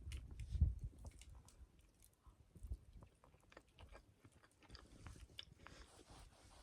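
A person chewing a mouthful of chicken, rice and curry close to the microphone, with small clicks scattered through and the loudest bite about half a second in.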